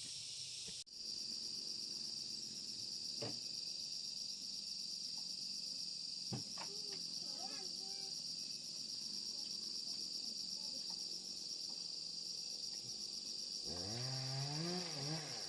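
Steady, high-pitched insect chorus with a faint pulsing, broken by a couple of light knocks. Near the end a low voice with a wavering pitch starts up.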